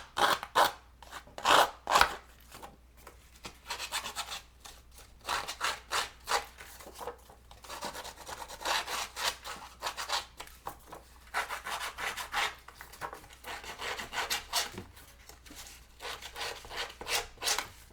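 An edge-distressing tool scraped along the edge of a thin paper strip in many short, irregular rasping strokes, roughing up the edge.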